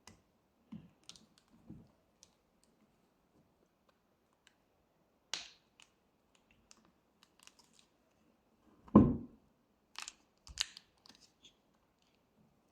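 Scattered clicks and light knocks of brake caliper parts and tools being handled on a workbench, with one louder, heavier knock about nine seconds in followed by a few sharp clicks.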